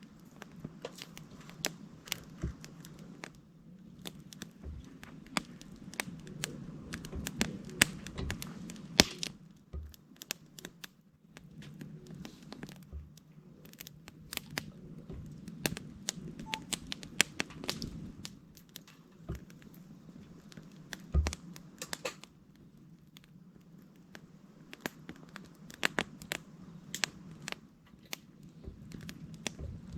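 Wood campfire crackling: irregular sharp pops and snaps over a low steady background noise.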